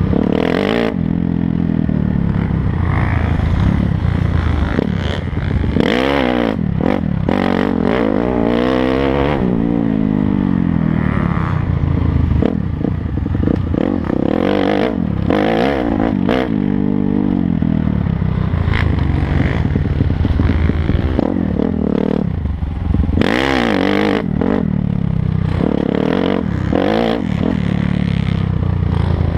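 Dirt bike engine being ridden, revving up and falling back over and over as the rider works the throttle and gears, with clattering knocks and rattles throughout.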